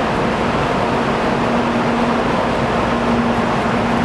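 Tokaido Shinkansen train running: a loud, steady rushing noise with a faint low hum.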